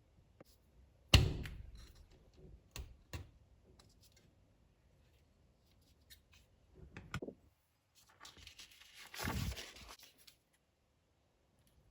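Hand crafting on a work surface: a sharp knock about a second in, two lighter taps a couple of seconds later, then a brief rustle and a longer scraping, rasping noise, as plastic and tools are handled.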